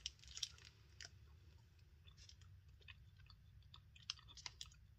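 Faint chewing of a bite of coconut-cashew energy bar: soft, irregular mouth clicks.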